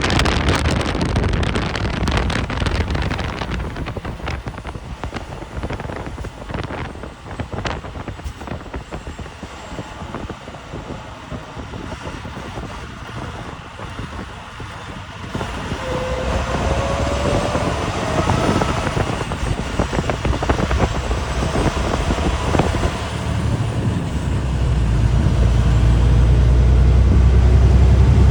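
A vehicle driving on a snowy road: steady road and tyre noise, with a rising engine note about halfway through. The low rumble grows louder over the last few seconds.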